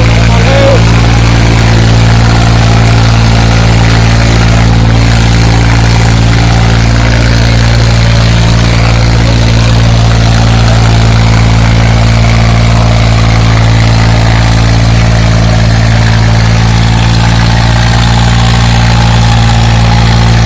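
Sonalika 35 tractor's diesel engine running loud and steady, with an even, unchanging drone.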